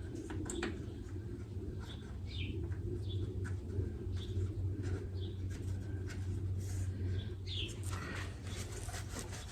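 Birds chirping in short, falling calls every second or two over a steady low hum, with a few light clicks of handling.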